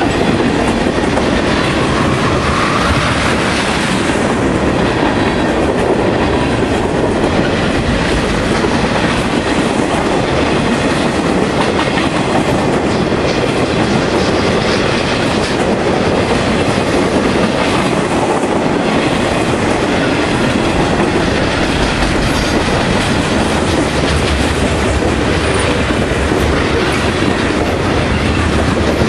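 Freight cars of a mixed freight train rolling past at close range: a steady, loud rumble of steel wheels on rail, with repeated clicks as the wheels pass over the rail joints.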